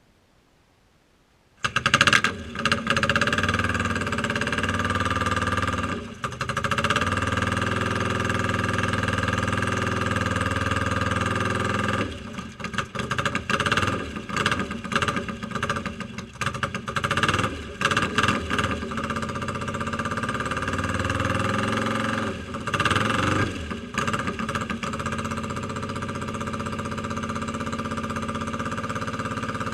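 1971 BSA Lightning's 650 cc parallel-twin engine catching about a second and a half in and running. Its sound dips and surges unevenly through the middle, then settles to a steadier, slightly quieter idle near the end.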